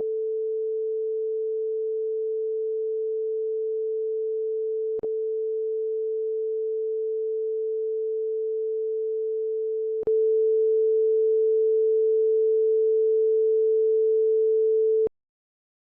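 Steady pure sine test tone at a single pitch, for a left/right stereo channel check. It breaks with a short click about five seconds in and again at ten seconds, where it switches channel, is louder for the last stretch, then cuts off about fifteen seconds in.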